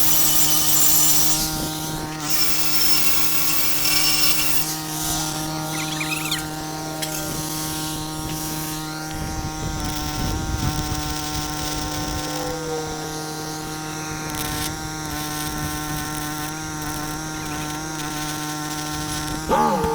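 Welding machine running with a steady hum, with a shifting hiss above it.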